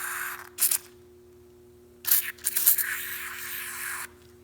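Aerosol can of Sea Foam Deep Creep penetrating oil spraying into a seized engine's open cylinders. A short burst at the start and a brief second one are followed, about two seconds in, by a long spray of some two seconds.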